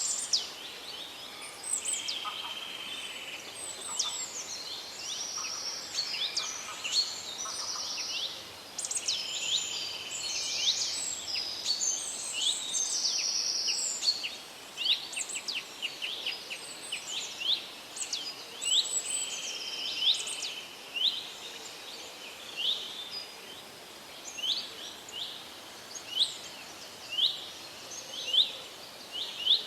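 Forest birdsong: several birds singing at once, with trills, buzzy notes and quick whistled chirps overlapping over a faint steady hiss. In the second half the chorus thins to one bird repeating a short, sharp falling chirp about once a second.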